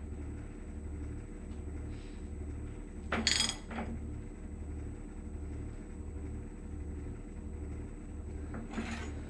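A 1.5-inch socket wrench tightening the nut of an electric water heater's heating element, with a sharp metallic clink about three seconds in and a fainter one near the end, over a steady low pulsing hum.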